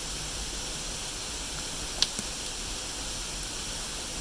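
Waterfall's steady rushing hiss, with one short sharp click about halfway through.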